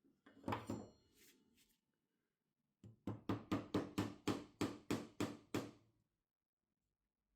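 A short clatter with a brief metallic ring, then a quick run of about eleven evenly spaced knocks, roughly three to four a second, like light hammer taps on a workpiece.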